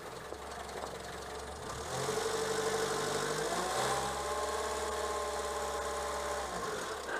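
Renault 11 engine running with the clutch-housing noise gone, now that the air filter's washer that had fallen into the clutch bell housing has been removed. The revs rise about two seconds in, climb a little more and hold, then drop back near the end.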